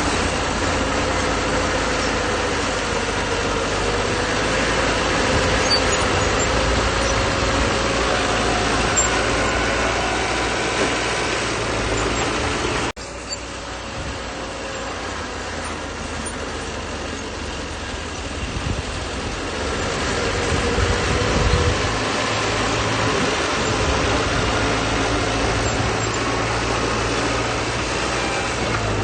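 Bulldozer's diesel engine running steadily while the machine works. The sound breaks off for an instant about halfway through, then carries on.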